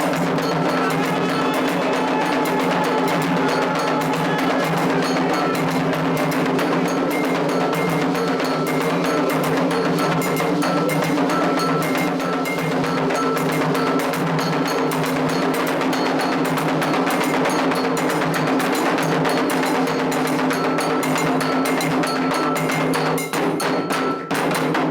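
Candomblé ritual percussion: atabaque hand drums with a struck metal bell, playing a fast, dense rhythm. It stops abruptly near the end.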